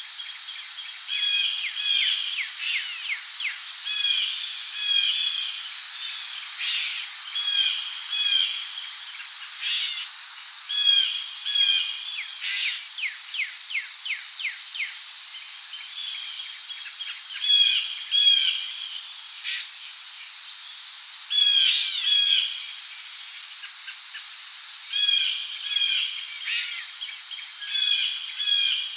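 Rainforest ambience: a steady high-pitched chorus of crickets under many birds calling, with short chirping phrases repeated every second or two and occasional runs of quick down-sweeping notes.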